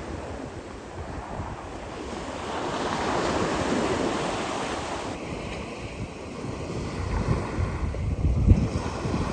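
Sea waves washing in, one surge swelling and fading a few seconds in, with wind gusting on the microphone near the end.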